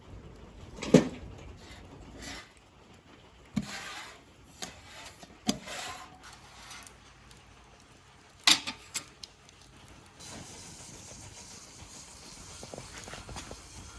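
A series of sharp knocks and clanks, about six of them spread over the first nine seconds, the loudest about a second in and again near the middle. Then a steady hiss sets in for the last few seconds.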